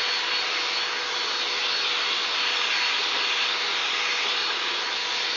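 Greenworks electric leaf blower running steadily: a constant rush of air with a faint high whine.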